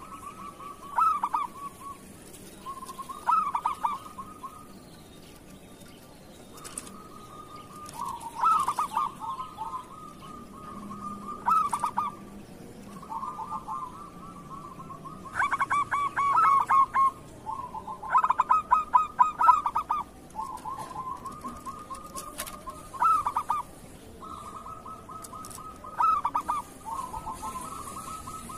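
Zebra doves (perkutut) cooing: repeated phrases of quick staccato notes, one after another every two to three seconds.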